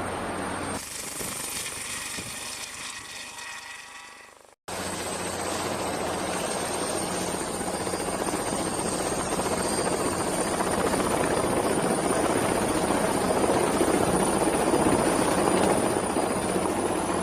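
Helicopter sounds: one helicopter fades out and cuts to a moment of silence about four and a half seconds in, then another helicopter's rotor noise and a steady high turbine whine start up and slowly grow louder, as if it is approaching.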